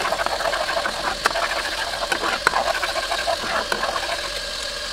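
Ginger garlic paste sizzling and crackling in hot oil in a pan, with sharper clicks and scrapes from a spatula as it is stirred.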